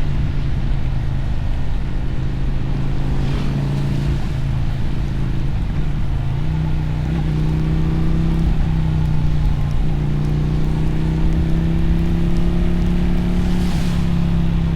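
Motorcycle engine and exhaust heard from the rider's seat while riding, its pitch rising and dropping in small steps with throttle and gear changes. Two brief swells of hiss pass over it, one a few seconds in and one near the end.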